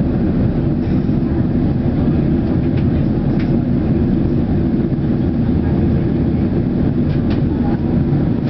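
Steady low rumble of an airliner cabin on the ground just after landing: engine and rolling noise heard from inside the plane, with a few faint ticks.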